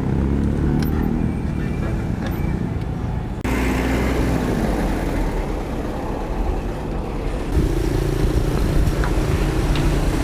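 Road noise heard while cycling in traffic: a steady low rumble of motor vehicles running and passing, with wind on the microphone. It changes abruptly twice.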